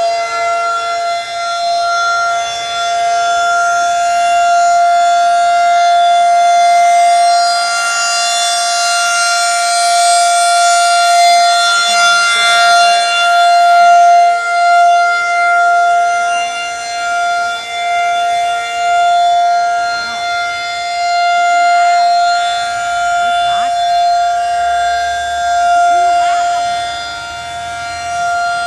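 Siren sounding one steady, unbroken tone rich in overtones, held at the same pitch without rising or falling.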